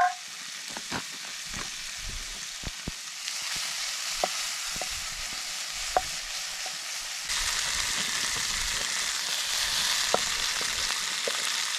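Meat frying, a steady sizzle with scattered sharp pops and crackles. The sizzle steps louder about three seconds in and again about seven seconds in.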